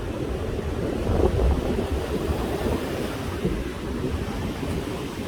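Wind buffeting the microphone over the steady rush of sea surf on a beach.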